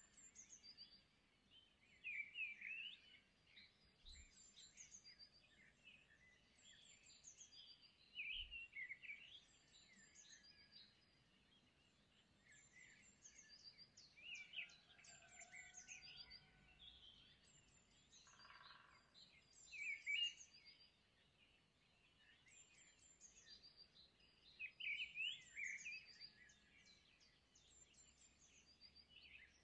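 Faint bird song: small birds chirping and twittering in quick, high clusters again and again.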